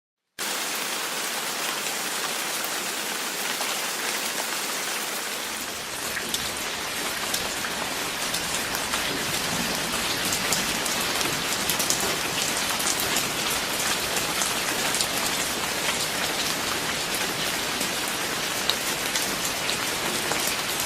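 Steady rain falling, a continuous hiss full of separate drop ticks, growing fuller and heavier about six seconds in.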